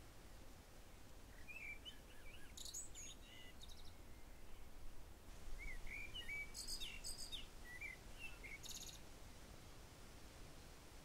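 Songbirds chirping and warbling in short phrases, with brief high, buzzy trills, in two clusters about two and six seconds in, over a faint low rumble.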